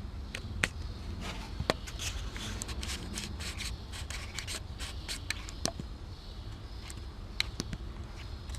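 Irregular sharp clicks and short scraping sounds, as of small hard parts being handled, over a steady low hum.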